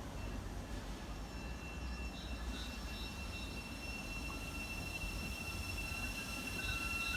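A train approaching on the line: a low rumble with a steady high ringing from the rails, slowly growing louder.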